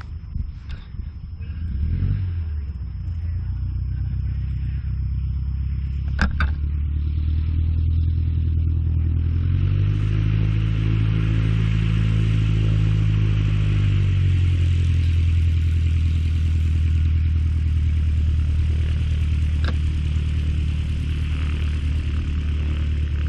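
A light aircraft's piston engine catches about two seconds in and runs steadily. About ten seconds in it revs up, then settles back to a lower speed about four seconds later. There are a couple of brief clicks.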